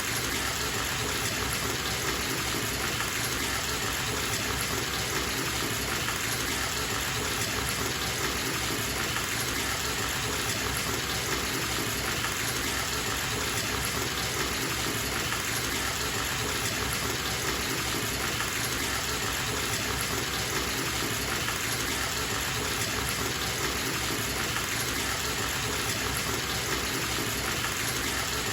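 Water running steadily from a bathtub tap into the tub, an even gushing with no change in level.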